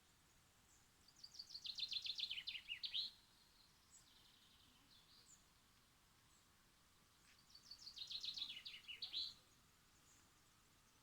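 A songbird sings twice, once about a second in and again about seven seconds in. Each song lasts about two seconds: a rapid series of notes dropping in pitch, ending in a short flourish.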